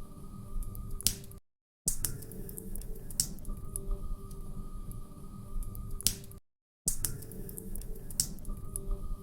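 Wood fire crackling, with sharp irregular pops over a low rumble and a faint steady hum. The sound drops out to silence twice, briefly, where a short loop of about five seconds restarts.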